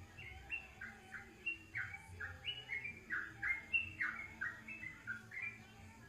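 Songbird singing a fast run of short, downward-sliding notes, about four a second, over a faint low hum.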